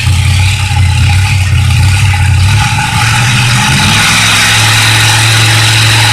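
Modified pulling tractor's engine running loud with a rough, low drone. About two and a half seconds in it changes pitch and settles into a steadier, slightly higher drone, with a thin high whine above it.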